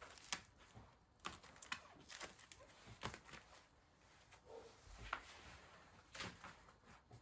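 Faint scattered clicks and light knocks of items being handled and set down, with near silence between them.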